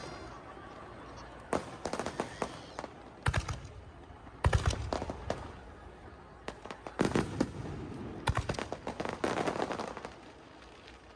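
Aerial fireworks shells bursting in a series of sharp bangs and crackles. The loudest is a deep boom about four and a half seconds in, and a run of crackling comes near the end.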